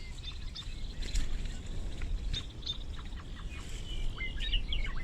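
Small birds chirping and twittering in short high calls at intervals, over a steady low rumble.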